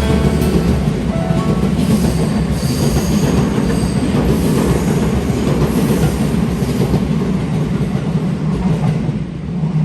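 A train running on the rails: a steady, low rumble of wheels and running gear.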